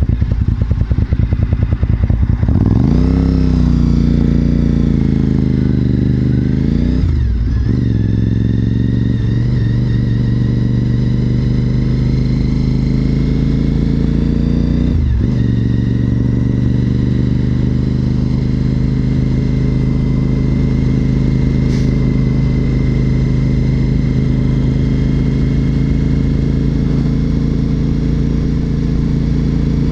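Honda RC51 SP2's 1000cc V-twin idling with a lumpy, pulsing beat, then pulling away about two seconds in. It revs up through the gears with shifts near 7 and 15 seconds, then settles into a steady cruise.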